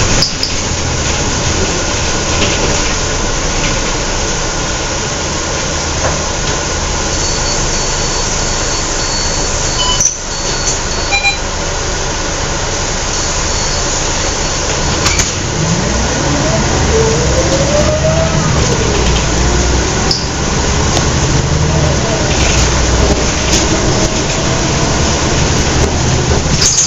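Scania L113CRL bus running, heard from inside: a steady low rumble from its rear-mounted diesel engine. Past the middle, the engine note rises as the bus pulls away and accelerates.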